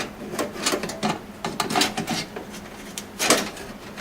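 Motherboard being set down into a metal PC case, knocking and scraping against the case and its standoffs in a string of irregular clicks and knocks, loudest about three seconds in.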